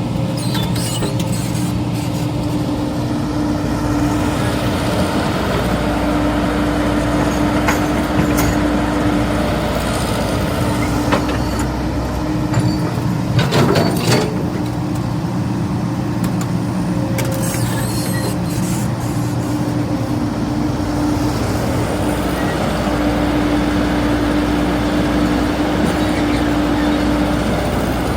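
Hydraulic excavator's diesel engine running steadily under load, with a held hum that swells and fades and a short cluster of clanks about halfway through.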